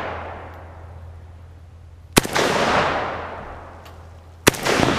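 AK-47 rifle firing 7.62×39 rounds: two single shots a little over two seconds apart, each followed by a long echo that rolls away. The echo of the shot before fades out at the start.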